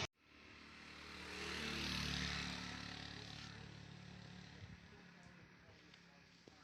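A motor vehicle passing by: the engine and tyre noise grow to a peak about two seconds in, then slowly fade away.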